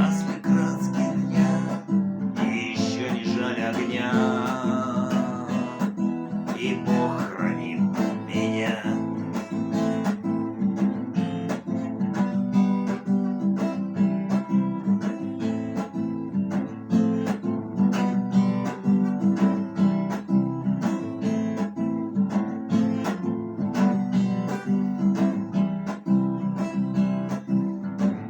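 Acoustic guitar strummed steadily. A voice sings over it for the first several seconds, then the guitar plays on alone.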